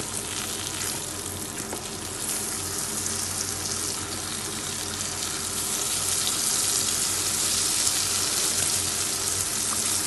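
Spice-coated raw banana slices shallow-frying in hot oil in a non-stick kadai: a steady sizzle that grows somewhat louder in the second half. Now and then a wooden spatula scrapes in the pan as the slices are turned.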